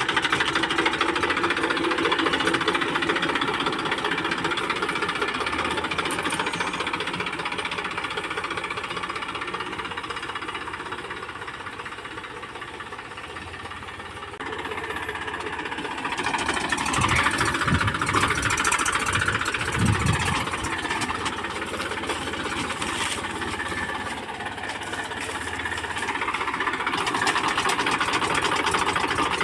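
Diesel tractor engine running under load while sowing coriander in the field, a dense fast-pulsing mechanical sound. It fades somewhat toward the middle, comes back louder, and dips again briefly later, with a few low thumps partway through.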